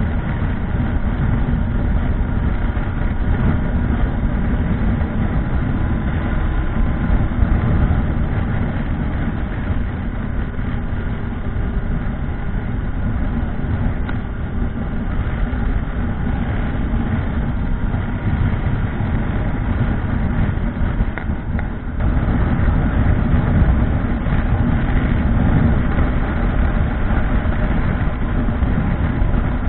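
Motorcycle engine running steadily while riding, a dense low rumble that eases briefly about 22 seconds in and then picks back up.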